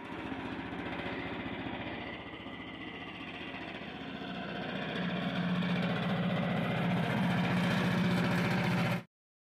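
An engine running steadily, growing louder about halfway through, then cutting off suddenly.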